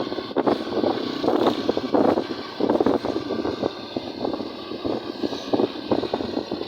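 Road and wind noise from a moving vehicle: an irregular, fluttering rush with frequent gusty surges, typical of wind buffeting the microphone while travelling.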